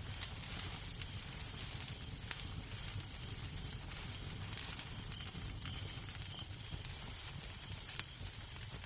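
Crackling wood fire in a fireplace: a steady hiss and low rumble with scattered sharp pops and snaps, the loudest pop about eight seconds in.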